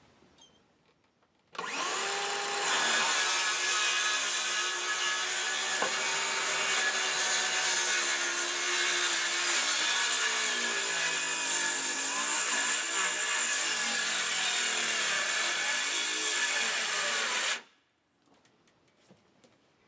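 Electric power tool working wood, most likely saw work on the rotten porch decking. The motor starts about a second and a half in and runs for about sixteen seconds with its pitch sagging and wavering under load, then stops abruptly.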